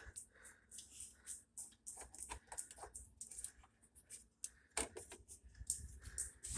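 Scattered light clicks and taps of hands handling parts and tools, over a faint low hum.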